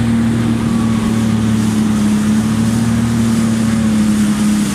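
Jet ski engine running at a steady speed, a constant hum that holds the same pitch throughout.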